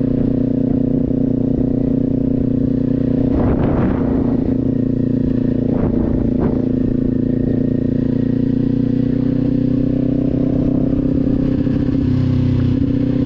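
Kawasaki sport motorcycle with a Leo Vince aftermarket exhaust, running at a steady low cruising speed, its engine note holding even. A brief rush of noise comes about four seconds in, and two short clicks follow around six seconds.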